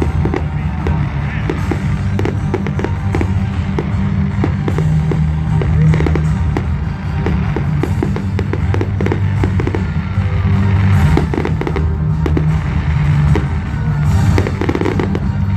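Fireworks display: a dense run of bangs and crackling bursts going off one after another throughout.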